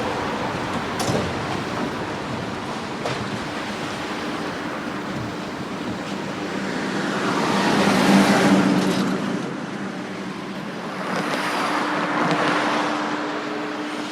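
Tram and street traffic: a steady hum with a faint steady tone, and two vehicles swelling past, the louder about eight seconds in and another around twelve seconds. A couple of faint clicks come early on.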